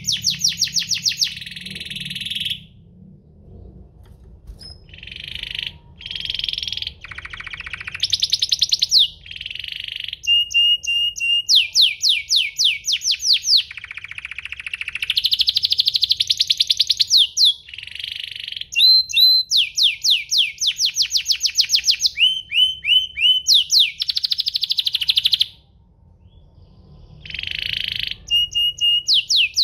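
Domestic canary singing: fast trills of repeated falling notes, each run lasting one to a few seconds, alternating with buzzy rolls and brief pauses.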